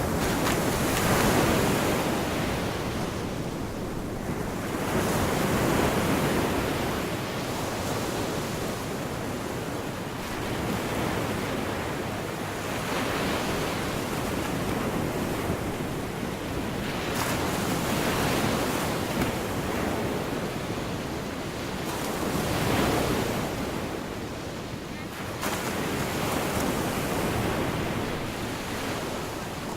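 Gulf of Mexico surf breaking and washing up the shore, swelling and easing about every five seconds.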